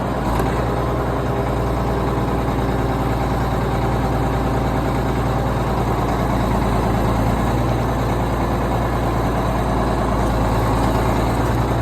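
Case 2670 tractor's six-cylinder diesel engine running steadily at idle, a deep even hum.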